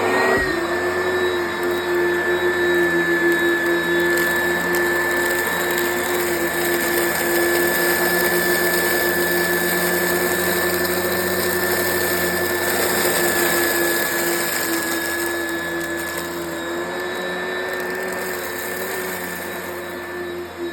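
Vacuum cleaner motor that has just spun up, its whine rising and settling to one steady high pitch, then running steadily with a low hum beneath while it picks up debris.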